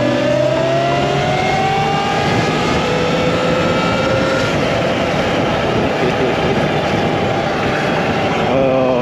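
Electric dirt bike on the move: a motor whine rising in pitch as it gathers speed, over a steady rush of wind and road noise.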